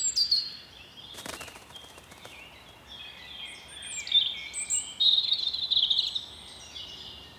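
European robin singing: a varied run of high, thin, quickly changing notes, loudest in the second half.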